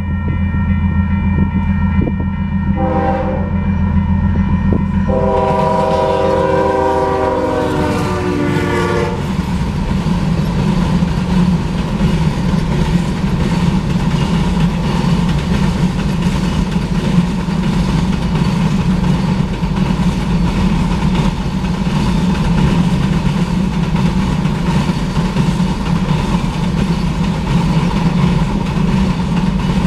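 Freight locomotive air horn sounding a short blast, then a long blast whose pitch drops as it passes, over the low rumble of the engine. Then the sand train's cars roll by steadily, wheels rumbling and clacking on the rails.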